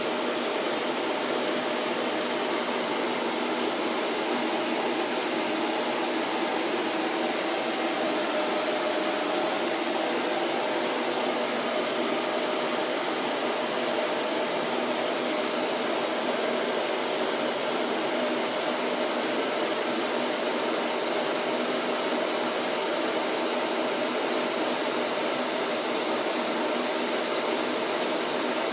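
Vacuum cleaner running steadily: an even rush of air with a faint steady hum underneath, holding the same pitch and level throughout.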